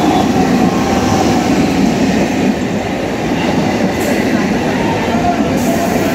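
Passenger train rolling in alongside the platform, a steady rumble of wheels and running gear as the coaches pass close by.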